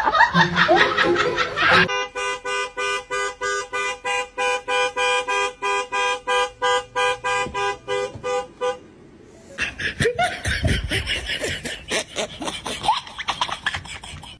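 A horn-like two-tone sound honking in a fast, even rhythm, about three to four honks a second for several seconds, followed by a mix of short squeals and clicks.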